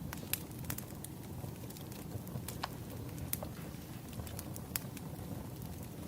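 Firewood burning and crackling: irregular sharp pops, a few each second, over a low steady rumble of the fire.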